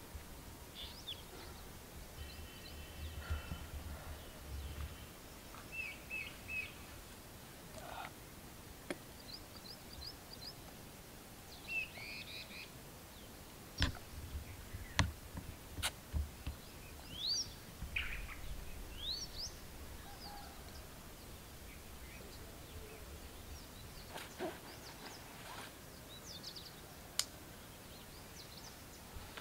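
Wild birds calling here and there in open woodland: scattered chirps and short, quick rising whistles from more than one bird, with a few sharp clicks among them.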